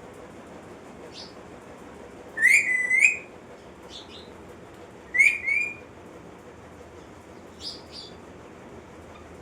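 Pet parrot whistling twice, each whistle rising and then holding its pitch, the first about 2.5 seconds in and the second about 5 seconds in, with a few short faint chirps before, between and after.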